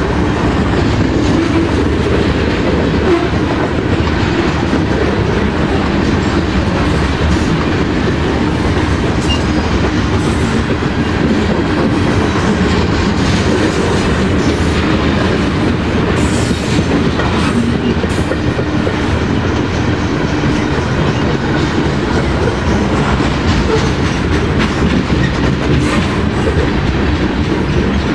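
Train rolling past, a steady loud wheel-on-rail noise with scattered clicks from the wheels.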